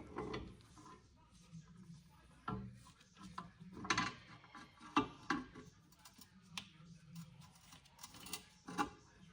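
Irregular clicks and metallic clinks as the brake hose banjo bolt is handled and fitted back onto a rear brake caliper, with a few sharper knocks about 4, 5 and 9 seconds in.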